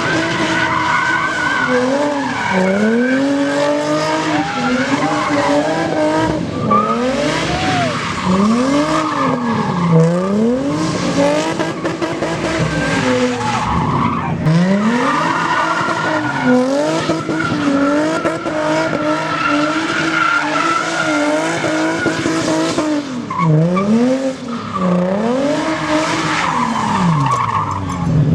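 A vehicle doing burnouts: its engine revs up and drops back again and again, every couple of seconds, while the spinning tyres squeal without a break.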